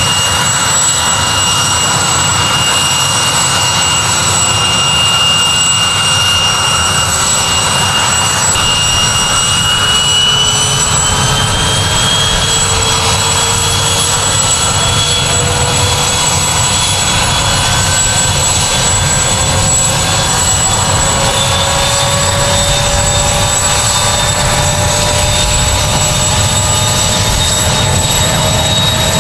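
Sikorsky S-64 Skycrane's turboshaft engines running loud and steady under a constant rush of noise, their whine rising slowly in pitch from about a third of the way in as the turbines spool up.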